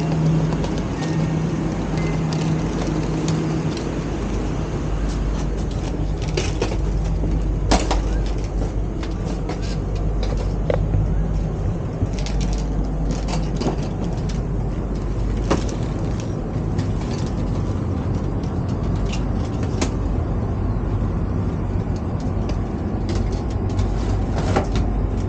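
Steady low rumble and hum of an ETS electric train, with scattered short clicks and knocks.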